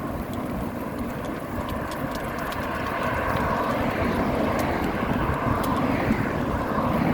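Steady rushing of wind and road noise while riding a bicycle, growing somewhat louder about three seconds in.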